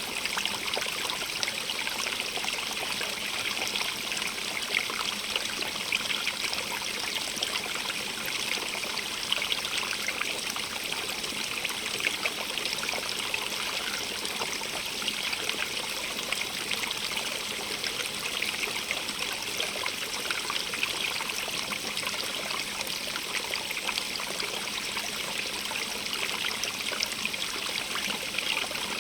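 Small stream running over rocks: steady water noise with a constant patter of small trickles and splashes.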